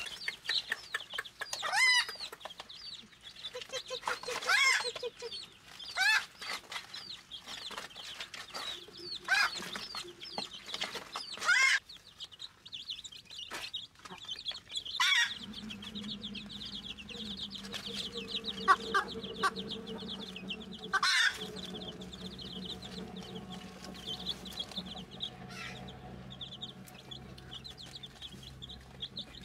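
Chickens clucking in repeated short calls. About halfway through, the background changes to steady, dense, high-pitched chirping over a low hum.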